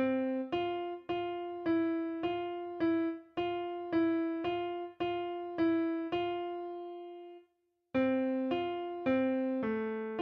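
The alto line of a hymn played one note at a time on a keyboard with a piano sound, at an even pace of about two notes a second in the middle voice range. About two-thirds of the way through, one note is held and then stops briefly before the line picks up again.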